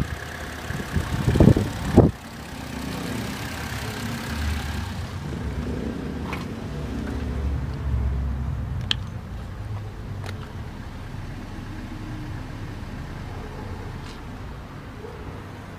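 Tigra's Z14XEP 1.4-litre four-cylinder petrol engine running, with a couple of short loud bursts about a second in, then settling into a steady idle with a few faint ticks.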